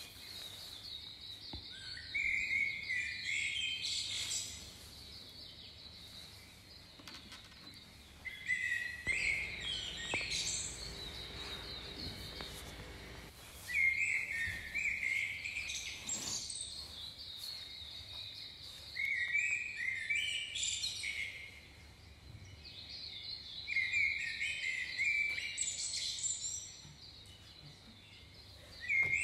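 Small songbirds chirping and singing in short bouts that come back about every five seconds, with a faint low rumble for a few seconds in the middle.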